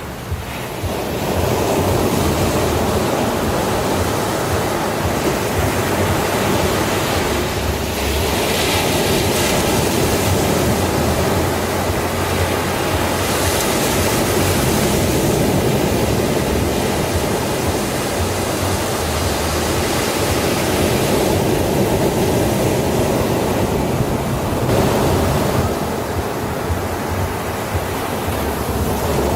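Sea waves breaking on a beach: a continuous rush of surf that swells and eases every several seconds, each swell brighter and hissier as the water washes up.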